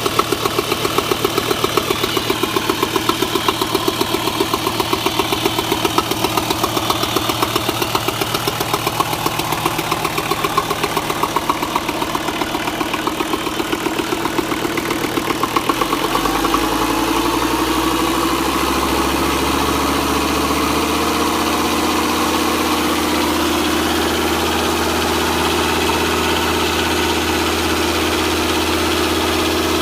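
Nanni 5.250TDI turbo-diesel marine engine on a test run after overhaul, idling with a rapid even pulse. About halfway through it is revved up, rising over a few seconds to a higher steady speed that holds.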